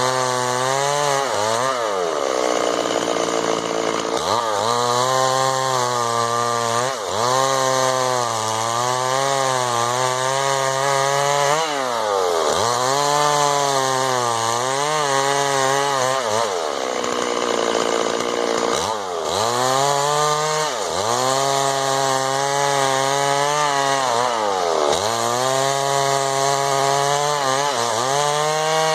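Two-stroke chainsaw cutting wood, its engine note sagging under load and climbing back again and again as the chain goes into and out of the cut. About two-thirds of the way through it briefly drops to a lower, weaker note before revving up again.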